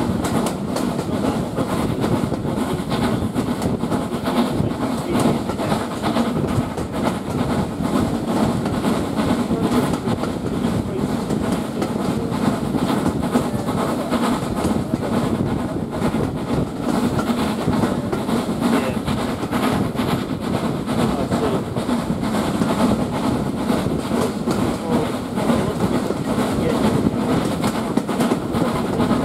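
Steam-hauled passenger train heard from on board: the carriage running along the track with a steady rumble of wheels on rail.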